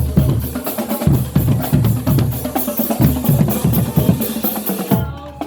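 Marching band playing a loud, drum-heavy passage of rapid snare and bass drum strokes, cutting off about five seconds in.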